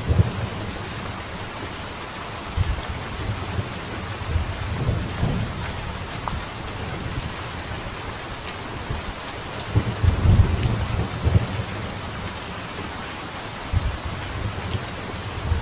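Steady rain with rolls of thunder, the longest and loudest rumble about two-thirds of the way through.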